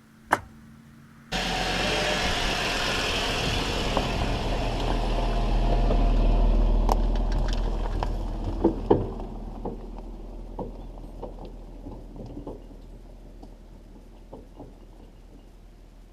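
A vehicle engine running, coming in abruptly, swelling and then fading away as it moves off. Scattered clanks and knocks are heard as it goes.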